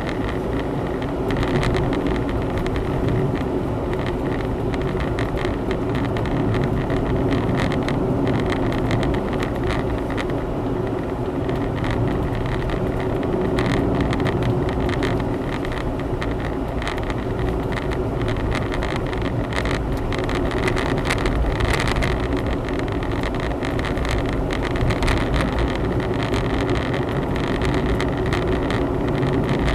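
Honda Zest kei car on the move, heard from inside the cabin: steady engine hum and tyre road noise.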